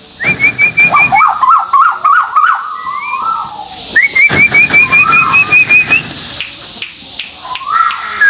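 Bird song of a Malaysian white-billed tuwu (tuwu paruh putih): twice a quick run of short rising high whistled notes, the second run longer, each followed by lower warbling phrases.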